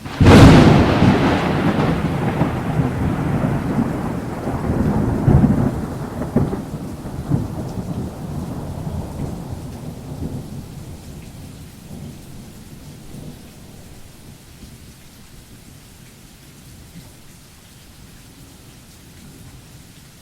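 A loud thunderclap that starts suddenly, swells again a few seconds in, then rumbles away and fades over about ten seconds, with a steady rain-like hiss beneath.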